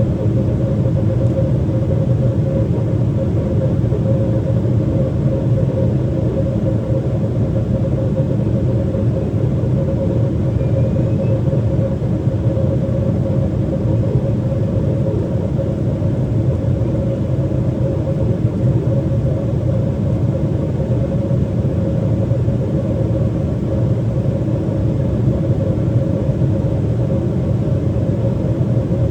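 Steady low rumble inside the cabin of a Boeing 777-300ER in descent: its GE90-115B engines and the airflow over the fuselage, with a constant hum on top.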